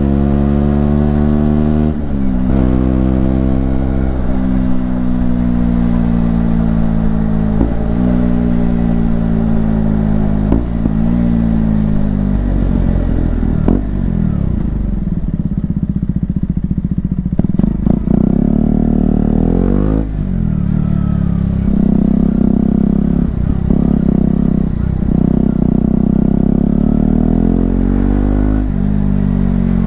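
KTM Duke 125's single-cylinder 125 cc four-stroke engine while the bike is ridden. The engine note falls steadily through the first half as the bike slows, sits low for a few seconds, then climbs again about two-thirds through and holds fairly steady, with a short dip near the end.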